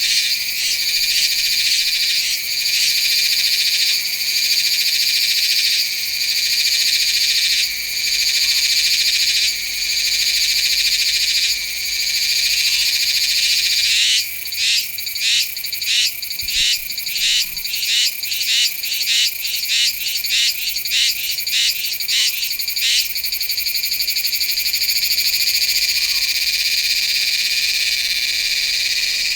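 Meimuna iwasakii cicada singing: a loud, high-pitched buzz. Partway through it breaks into a quick series of pulses, about two a second, for several seconds, then settles back into a steady buzz.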